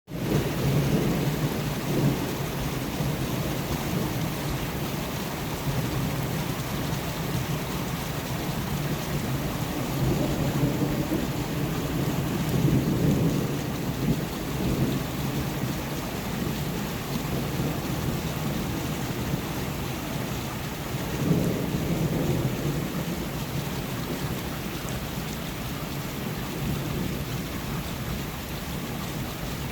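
Steady rain with thunder rumbling, swelling twice, once around the middle and again about two-thirds of the way through, with a sharp peak at the start of the second swell.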